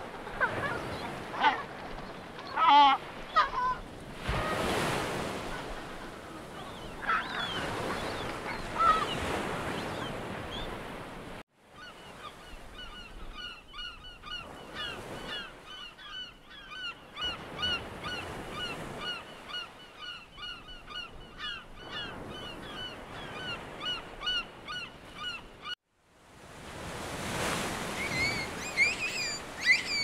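Wild bird calls over a steady rushing background. The sound cuts off abruptly twice; the middle stretch is a run of quick, repeated chirps.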